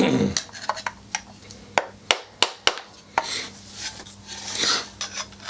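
Metal scraping and clicking as a tight-fitting DB killer baffle is twisted side to side with grips inside a titanium exhaust silencer to work it loose. Irregular sharp clicks mix with short rasping scrapes.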